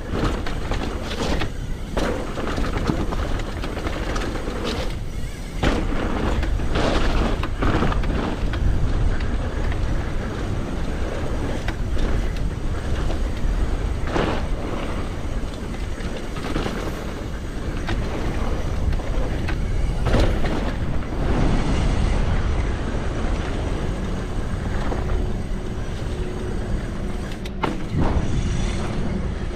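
Mountain bike descending a wet dirt downhill trail: wind buffeting the camera microphone over tyre noise on the dirt, with frequent short knocks and rattles as the bike hits bumps.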